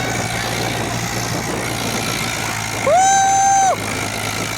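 Tractor engine running steadily, with one loud horn blast of under a second about three seconds in.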